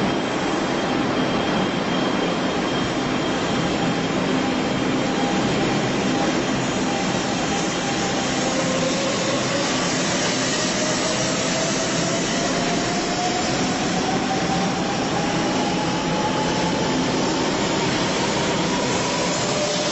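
Japanese Shinkansen bullet train running: a steady, even rushing noise, with a whine that climbs slowly in pitch from about halfway through.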